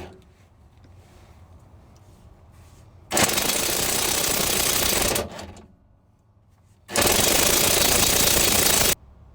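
Impact wrench running in two bursts of about two seconds each, rattling as it works on the wheel's lug nuts.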